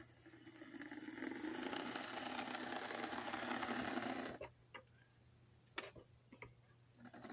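Lima FP45 model locomotive's ring-field motor and gears whirring as it runs under power, building up over the first second or so and running smooth rather than rough. It stops abruptly after about four seconds, a few light clicks follow, and it starts running again near the end.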